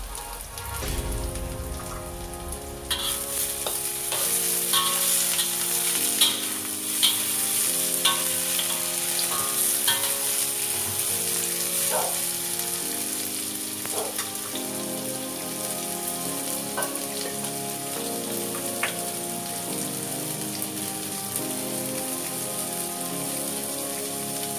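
Sliced vegetables sizzling in a hot wok as they are stir-fried, with a spatula clinking and scraping against the metal a dozen or so times in the first half.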